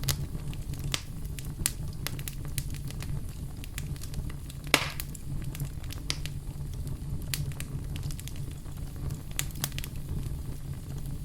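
Wood campfire burning with a steady low rumble and irregular sharp crackles, with one loud pop a little under five seconds in.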